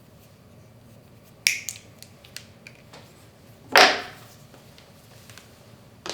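Small hard objects being handled at a workbench: a sharp click about a second and a half in, a few lighter ticks, a louder knock in the middle and another click at the end.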